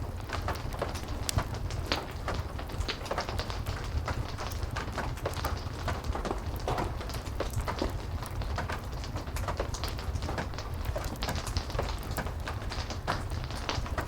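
Steady heavy rain with a low rumble, mixed with a fireplace's frequent small crackles and pops.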